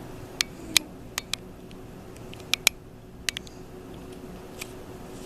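Sharp little clicks and taps while a baby is spoon-fed rice cereal, mostly coming in quick pairs, about nine in all, over a faint steady hum.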